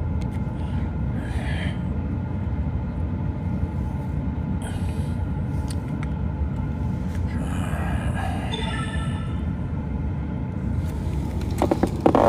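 Train running noise heard from inside a passenger car: a steady low rumble of the wheels on the rails. Just before the end a louder sudden sound cuts in.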